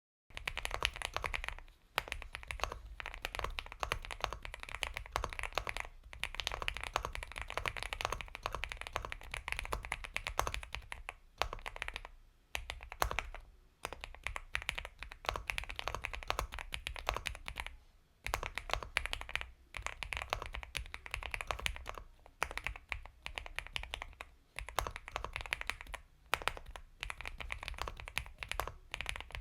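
Typing on an Epomaker x Feker Galaxy 80 mechanical keyboard fitted with Gateron Milky Yellow Pro linear switches: rapid, continuous keystrokes with a soft, creamy sound. The typing starts abruptly just after the beginning and breaks off a few times for a moment.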